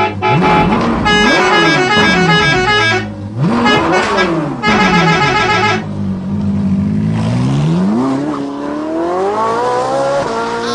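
Electronic engine and horn sound effects from a battery-operated toy bus: a synthetic rev sweeps up and down twice with fast beeping tones over it, then settles to a steady hum before a long rising rev near the end.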